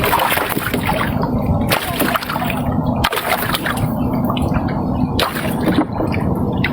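River water splashing and sloshing against a fishing boat, with several sharper splashes over a steady low drone.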